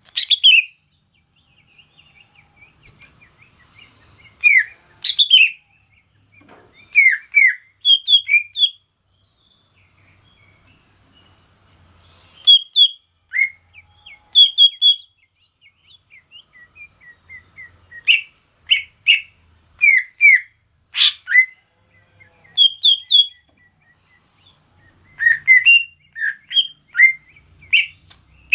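Cucak ijo (green leafbird) calling in short, sharp chirps that come in quick clusters of two to four, with pauses of a second or more between clusters, over a steady high hiss.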